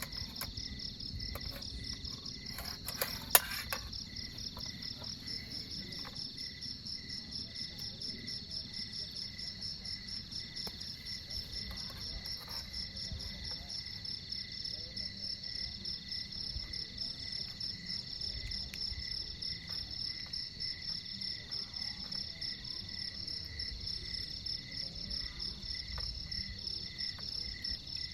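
Insects, crickets or similar, chirring steadily in several overlapping high, rapidly pulsing trills, over a low background hum. A single sharp click sounds about three seconds in.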